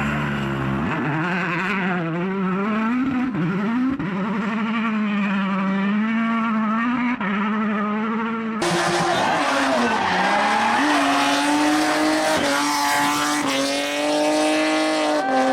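Rally car engines revving hard, their pitch climbing and dropping over and over through gear changes, with tyres skidding. About halfway through, the sound switches abruptly to another car at full throttle.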